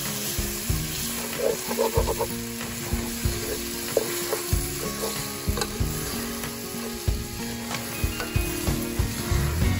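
Chicken and carrot pieces sizzling in a hot pot as metal tongs stir and turn them, with the odd sharp click of the tongs against the pot. Soft background music with low held notes plays underneath.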